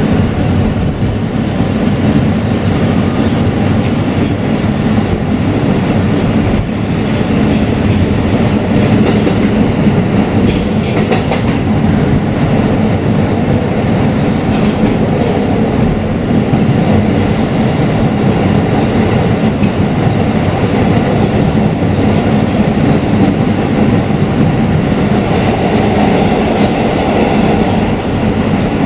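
Kawasaki R160B subway car running at speed, heard from inside the car: a steady rumble of wheels on rail with a few faint clicks over rail joints.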